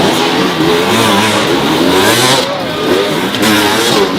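Motorcycle engines revving and accelerating, several at once, their pitch rising and falling over a constant hiss of noise.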